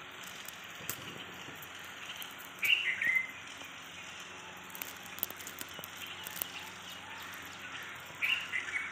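A bird calls twice, each time a short run of quick chirps, about five and a half seconds apart, over a steady background hiss.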